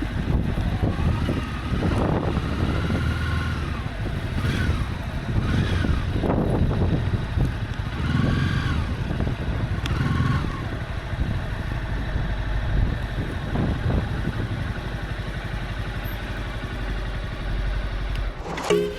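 Honda CB300F single-cylinder motorcycle engine under way. Its revs rise and fall several times in the first ten seconds, then hold steadier, over a continuous low road and wind rumble.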